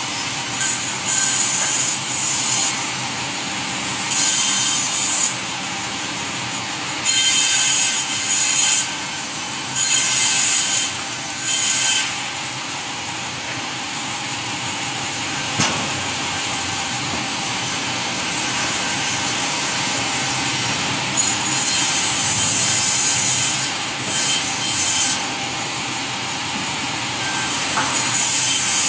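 Sawmill saw cutting wood over steady machinery noise. The cutting comes in repeated bursts: several short ones in the first half and a longer stretch in the second half, with a single sharp knock in the middle.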